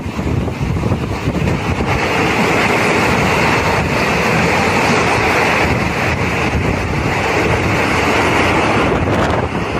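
Passenger train running through a railway tunnel, heard from an open coach door: a loud, steady rushing of wheels, rails and wind thrown back by the tunnel walls, growing louder and harsher about two seconds in as the coach goes deeper into the tunnel. Wind buffets the microphone.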